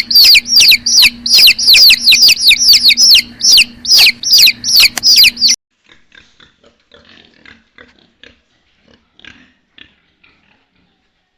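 Chicks peeping rapidly: high-pitched, shrill calls that slide downward, four or five a second, with a faint steady hum beneath. They cut off suddenly about five and a half seconds in, leaving only faint scattered peeps and clicks.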